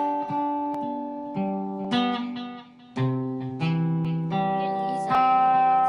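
Acoustic plucked stringed instrument playing the closing chords of a song after the singing has stopped. A new chord is struck every half second to a second and left to ring, with a brief drop just before a lower chord about halfway through.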